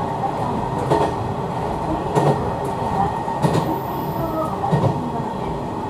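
Hisatsu Orange Railway diesel railcar running along the line, heard from inside the car: a steady rumble of wheels and running gear, with a clack over a rail joint every second or so.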